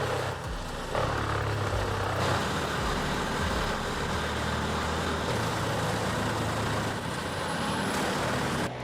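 Vermeer WC2500XL whole tree chipper running steadily under load, a continuous heavy engine drone with a rushing noise over it as it feeds through trees. The sound changes abruptly near the end.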